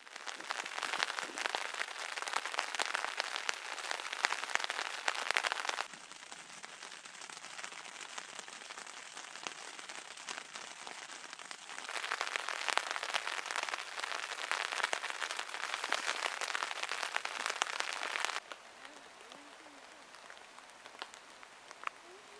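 Steady rain falling as a dense spray of fine drop hits. It drops sharply in level about six seconds in, comes back up about twelve seconds in, and drops again near eighteen seconds.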